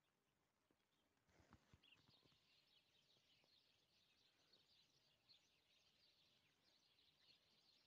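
Near silence, with faint chirping of small birds starting about a second in and a couple of faint low thumps just after.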